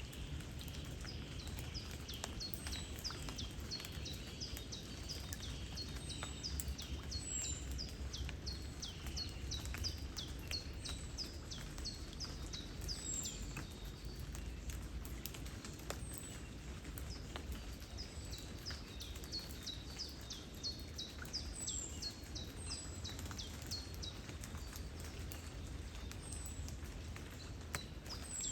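Small birds chirping in quick runs of short, high, falling notes over a steady low rumble of river water and wind, with light rain pattering.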